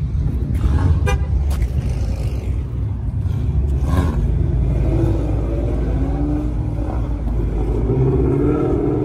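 A car engine running with a deep, steady rumble, its pitch wavering in the second half.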